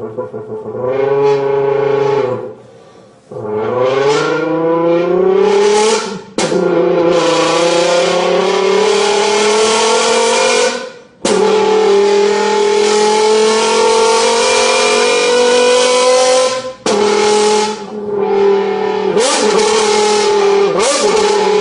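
A person imitating a Lamborghini V10 engine with their voice buzzed through a crushed empty beer can, the pitch climbing like rising revs. Several times it breaks off and drops back lower, like gear changes.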